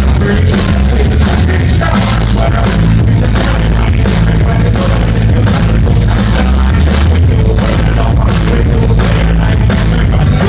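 Live rock band playing loudly, with heavy bass, a drum kit keeping a steady beat and guitar.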